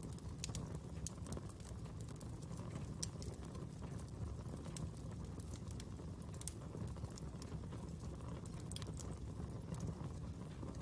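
Fire burning with a steady low rumble and scattered sharp crackles and pops, several a second.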